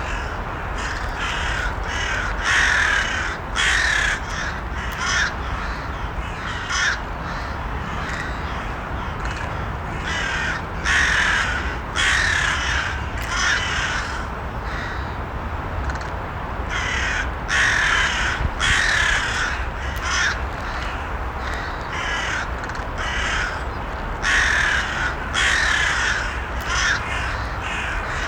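Crows cawing: many harsh calls in irregular runs, some close together, over a steady low rumble.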